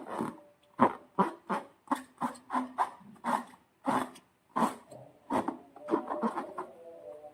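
Slime being squeezed and worked by hand, making a run of short wet squelches about two a second.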